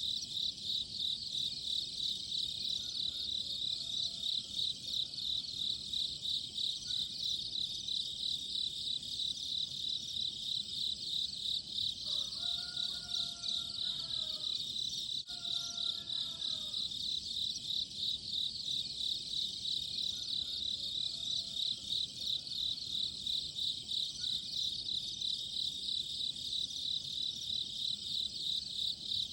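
Continuous insect chorus: a steady, high, rapidly pulsing buzz. A few fainter, lower whistled notes come about halfway through.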